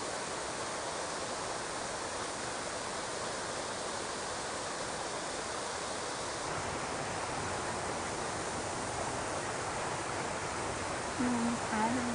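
Mountain stream water rushing steadily over rocks, a constant even wash of sound. A person's voice is heard briefly near the end.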